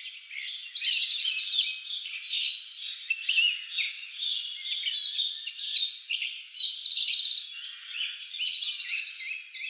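A dense chorus of many small birds chirping and trilling at once, high-pitched overlapping calls with no pause.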